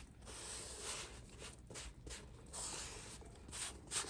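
Sponge rubbing leather conditioner onto the leather of a bag in repeated back-and-forth strokes, a soft scratchy swishing roughly twice a second.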